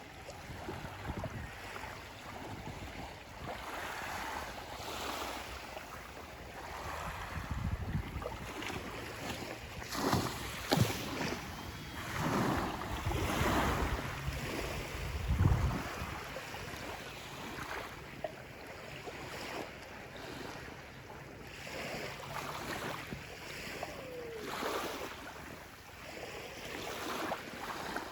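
Small waves washing in and breaking on a sandy beach in surges every few seconds, with wind gusting on the microphone.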